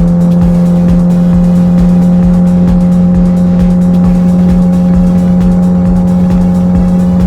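Boat outboard motor running at a steady high speed with the boat under way, a constant engine drone with uneven low buffeting underneath.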